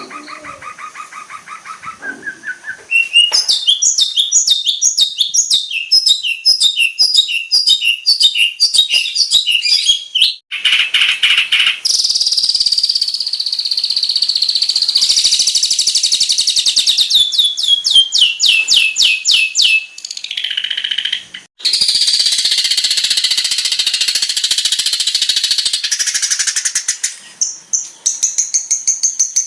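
Long-tailed shrike singing a fast, varied song of rapid repeated high notes and dense chattering, its phrases changing every few seconds like a string of mimicked calls of other birds.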